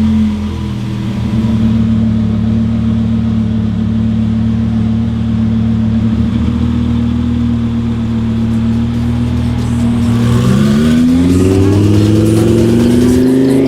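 Twin-turbo Lamborghini Huracan's V10 running at a steady pitch, then accelerating, its pitch rising smoothly over the last few seconds.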